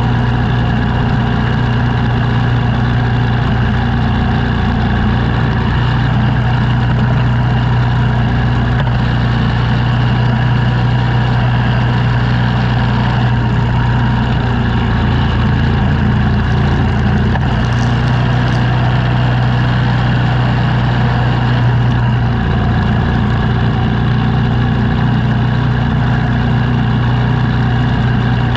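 The engine of a snow-clearing machine running steadily at a constant speed, a continuous hum.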